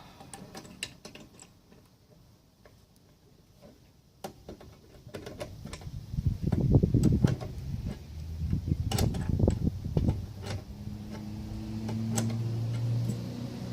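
Metal clicks and knocks of hand tools working on a lawnmower's front end, with a spell of louder clattering in the middle. A steady low hum sets in near the end.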